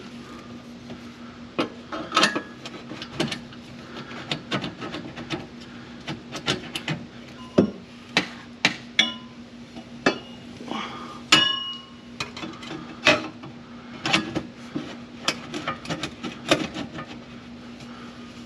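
Metal exhaust pipes and mufflers clanking and knocking irregularly as they are handled and test-fitted under a car, a few knocks ringing briefly. A steady low hum runs underneath.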